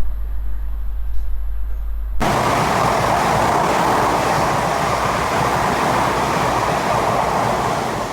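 Train passing at speed, a steady rushing noise that starts abruptly about two seconds in and eases off near the end.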